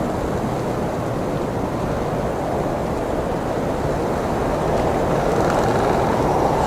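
Blizzard wind: a steady, low rushing noise that swells a little louder over the last couple of seconds, like a gust building.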